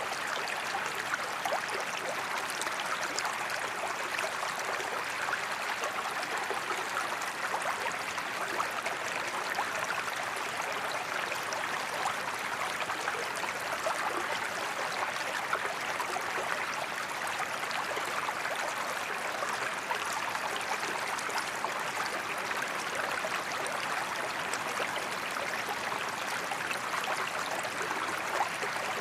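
Waterfall: a steady, even rush of falling and flowing water with a fine splashing crackle, unchanging throughout.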